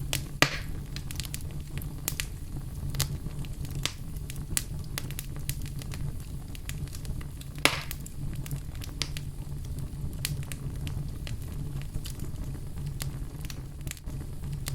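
Wood fire crackling in a fireplace: a steady low rumble of flames under scattered sharp pops, with two louder pops, one just after the start and one about eight seconds in.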